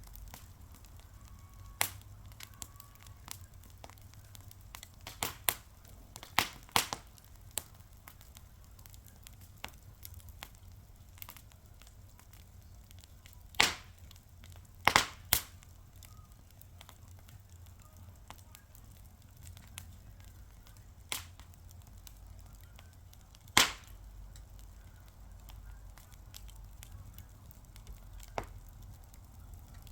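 Wood fire crackling, with irregular sharp pops and snaps over a soft low rumble. The loudest pops come in a cluster about halfway through and once more later on.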